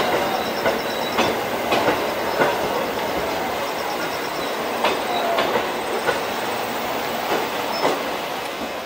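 Electric passenger train rolling along the rails, its wheels clacking over rail joints about every half second over a steady rumble, with a few brief high wheel squeals.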